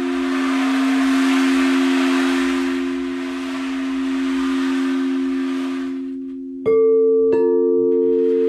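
Singing bowls ringing with long, steady, overlapping tones over the rush of a stream. The stream sound drops out about two-thirds of the way through, and two fresh strikes about half a second apart add a new, higher ringing note.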